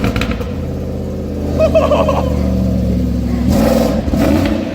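Ford F-150's 5.4-litre V8 running through a new exhaust: a Magnaflow muffler with an over-axle resonator and no catalytic converters. It idles steadily and is blipped in short revs near the end.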